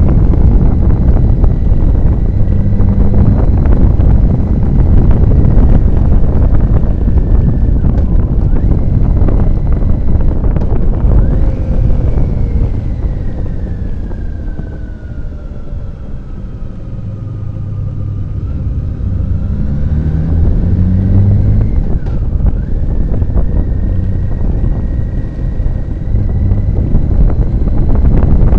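Wind buffeting the microphone of a moving motorcycle, with the engine running underneath. About halfway through the wind eases as the bike slows, then the engine revs up and the wind builds again.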